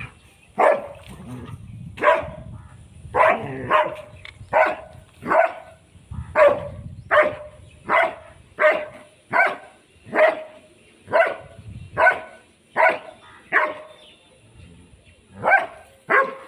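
A dog barking over and over, about eighteen sharp barks in a steady rhythm of roughly one every three quarters of a second, with a short break near the end before two more barks.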